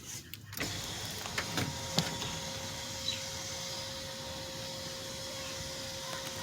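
Electric sunroof motor of a 2008 Cadillac CTS running after being rewired, a steady whir with a faint hum starting about half a second in, with a few light clicks.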